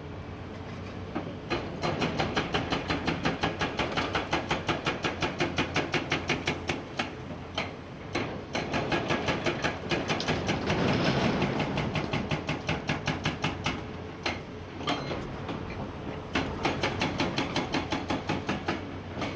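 Hydraulic breaker on a Komatsu PC490 excavator hammering rock, a fast, even rattle of about seven blows a second over the excavator's engine. It comes in several runs with short pauses between them.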